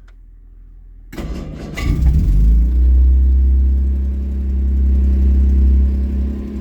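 Jaguar E-Type's straight-six engine cranking briefly about a second in, catching almost at once and running up, then settling into a steady fast idle on the choke: a cold start.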